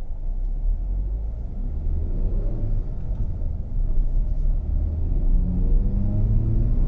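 Hyundai Venue's 1.2-litre petrol four-cylinder engine, heard inside the cabin, pulling away from a standstill in the low gears over a steady low rumble. The engine note rises, drops at a gear change, then rises again. The engine is being tested for lag below 2000 rpm, and the driver finds it pulls with no lag at all.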